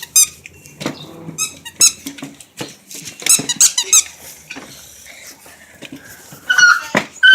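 Dog yelping and whimpering in short, high-pitched squeaky cries that rise and fall in pitch, coming in clusters, with a few knocks in between; the dog has got its paw stuck.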